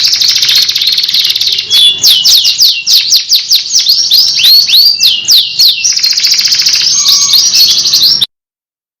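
Domestic canary singing: fast rolling trills, then from about two seconds in a run of swooping whistled notes, then trills again. The song cuts off suddenly near the end.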